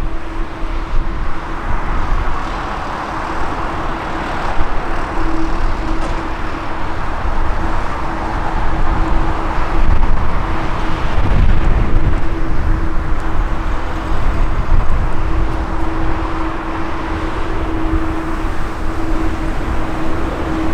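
Jet airliner engine noise, a steady drone with a constant hum through it, over strong wind rumbling on the microphone.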